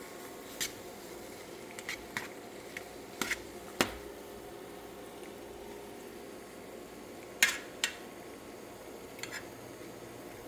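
Kitchen utensils clinking and knocking against cookware in a home kitchen: about nine short, sharp clinks at uneven intervals over a steady faint hum. The loudest come a little before halfway and just past two-thirds of the way through.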